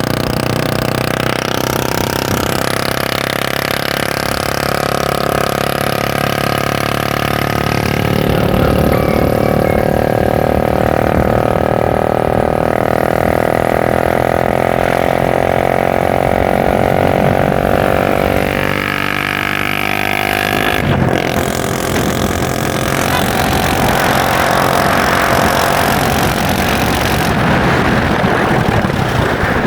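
Motorcycle engine running while riding. The note climbs gradually, falls away about two-thirds of the way through, cuts briefly, then carries on steadily.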